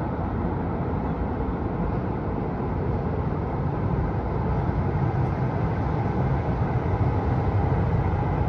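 Tyne and Wear Metro train crossing the steel truss Metro Bridge over the river: a steady low rumble that grows slowly louder.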